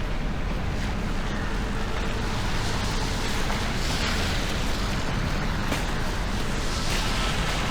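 Steady city street noise with a low rumble of wind buffeting the microphone and faint scattered clicks.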